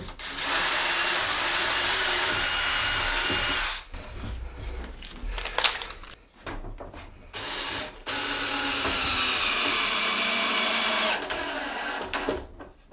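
Power drill driving screws, in two steady runs of about three and a half seconds each, with a sharp knock between them.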